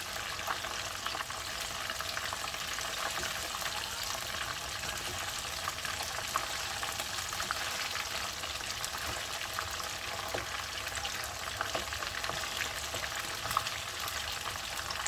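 Marinated chicken pieces frying in hot oil: a steady sizzle with many small crackles and pops.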